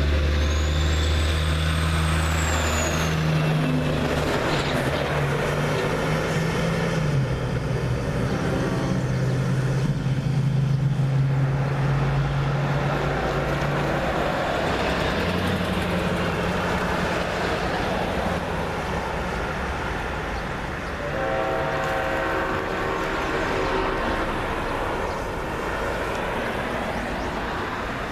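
Diesel-hauled freight train running, with the low drone of the locomotive engines and a steady rumble of the train on the rails. About three-quarters of the way through, a locomotive air horn starts sounding a steady chord.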